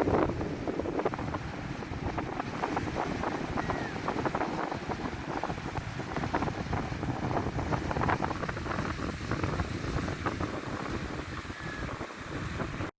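Sea waves washing, with wind buffeting the microphone; two brief high chirps stand out, and the sound cuts off abruptly near the end.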